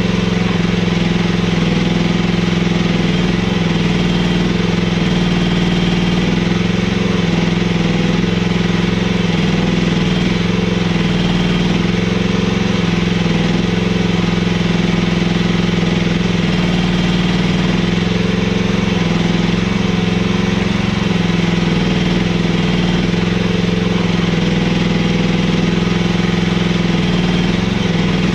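Mini excavator engine running steadily at a constant speed, a loud low hum with slight wavering in pitch.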